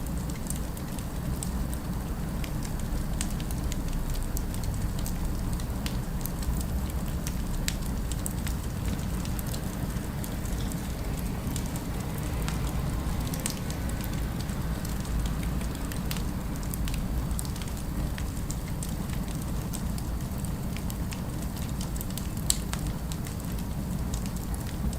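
Fireplace crackling: a steady low rumble under scattered sharp pops and snaps, one louder pop near the end.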